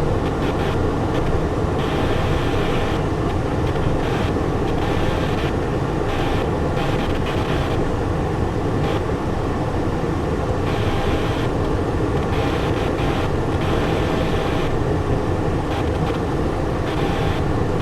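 Steady rush of airflow and turbofan engine noise in the cockpit of a Cessna Citation Encore jet on final approach, with gear and full flaps down.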